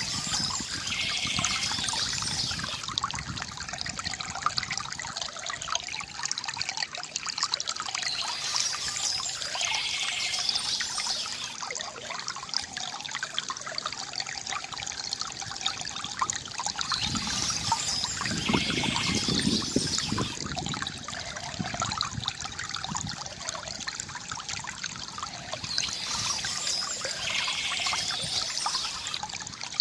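Water from a bamboo fountain trickling and splashing steadily, with a deeper gurgle a little past halfway. Bird chirps come in four times, about every nine seconds.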